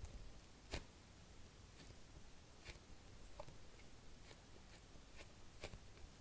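Faint handling of a soft foam squishy toy: scattered light taps and small clicks from fingers pressing and shifting it, the sharpest click about a second in.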